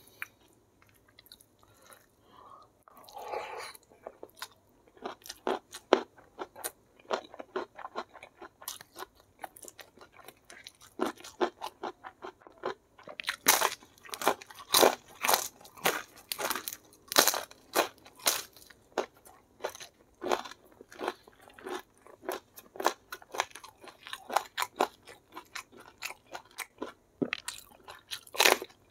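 Close-up mouth sounds of a person chewing crunchy fried tempeh: crisp crunches, sparse at first, then a steady run of about two a second from around a third of the way in.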